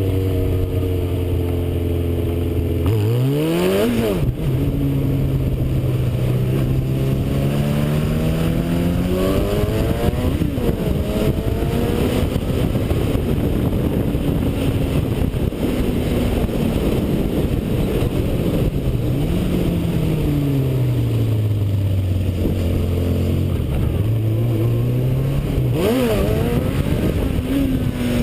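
Yamaha Seca II's inline-four engine under way, its pitch holding, then climbing sharply and dropping about four seconds in, then rising and falling several times through the gears with another quick rev near the end. A steady rush of wind runs underneath, heard from a helmet-mounted camera.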